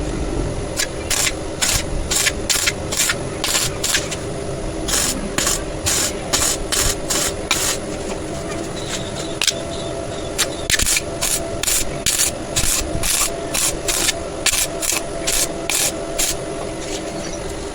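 A hand tool scraping on metal in quick, even back-and-forth strokes, about two to three a second, with a short pause about halfway through.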